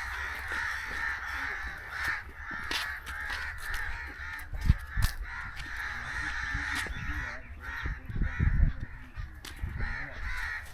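A flock of crows cawing continuously, a dense harsh chatter, with a few low bumps about halfway through and near the end.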